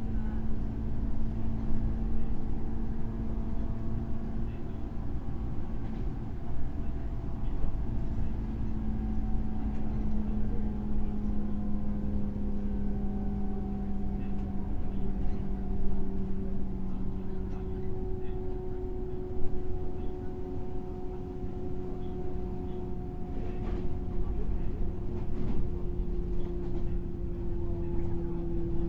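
Running sound inside a JR 103 series motor car: the MT55 traction motors hum over a steady rumble of wheels on rail, with a few scattered knocks. The motor hum slowly falls in pitch as the train loses speed.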